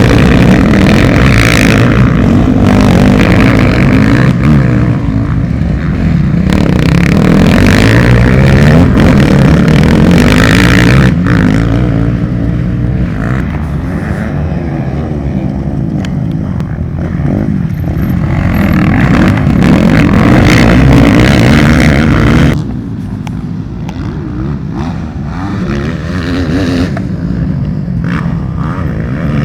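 Motocross motorcycle engines running hard and revving, the pitch rising and falling as the throttle is worked. The sound drops suddenly in level about three quarters of the way through and carries on quieter.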